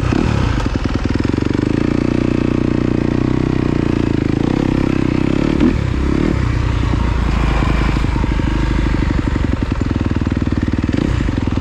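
A 2026 Kawasaki KX250F dirt bike's single-cylinder four-stroke engine running. The revs are held steady for several seconds, then change about six seconds in.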